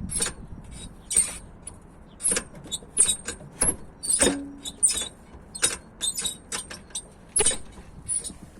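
Renault Logan's gearshift squeaking as the lever is moved between gears: a series of over a dozen short, high-pitched squeaks at irregular intervals. The squeak on shifting is the fault being shown.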